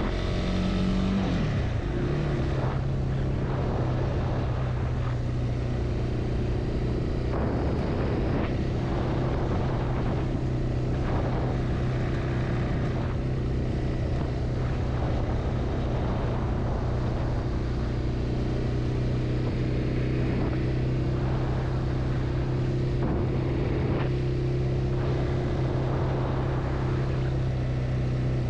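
Honda CB300R's single-cylinder engine running on the move. Its note drops about a second in, then holds steady at an even cruise.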